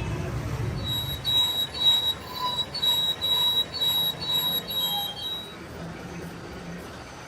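High-pitched metal-on-metal squealing in a run of short pulses, roughly two a second, from machining work on a steel crankshaft. A low hum comes before the squeals, and a quieter hum is left when they stop, a little past halfway.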